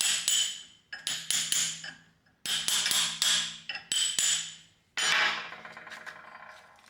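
Heavy steel tool parts, a jackhammer bit and axe head, clanking and being knocked together or set down. There are about five hard clanks a second or so apart, each ringing and dying away, the last one ringing longest.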